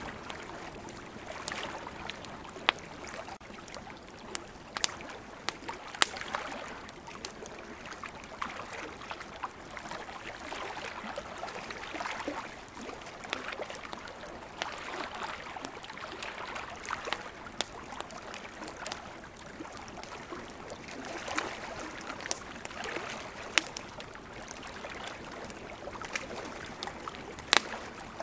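Wood campfire crackling, with sharp pops scattered irregularly through it, over ocean waves washing in and out in slow swells.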